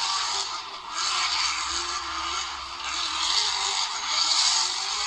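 A high-revving car engine with loud exhaust, its pitch wavering as it surges and eases about once a second.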